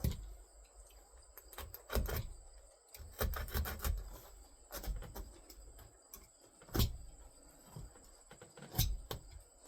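Irregular clicks and knocks of hand tools being handled at a workbench, with a sharper knock about two-thirds of the way in.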